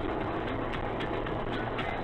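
Steady vehicle road and engine noise, unchanging, with faint ticks here and there, heard through a low-quality in-car camera microphone.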